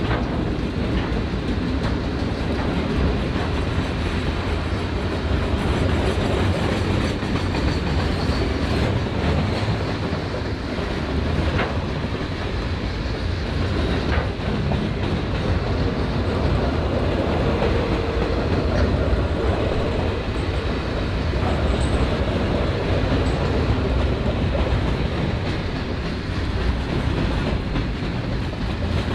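Freight train wagons rolling past at speed: a steady rumble with the clatter of wheels over the rails.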